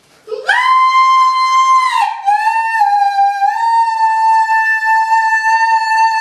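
A loud, shrill, high note held for about six seconds, stepping down slightly in pitch about two seconds in, then cutting off.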